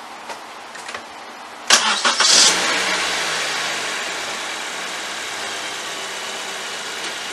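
A 2015 Honda Civic's four-cylinder engine is cranked by the starter about two seconds in and catches almost at once. It then settles into a steady idle, its level easing down over the next couple of seconds.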